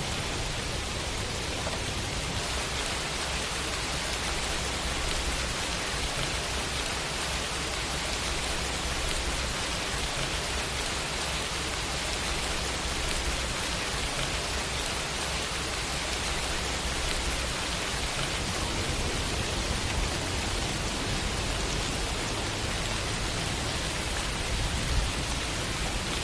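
Steady rain falling in a city: an even hiss of rain, with a low rumble underneath.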